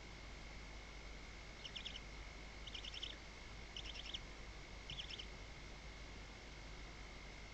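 Barn owls in a nest box giving four short bursts of rapid, high ticking chirps, about one a second, over a steady faint high-pitched electronic tone.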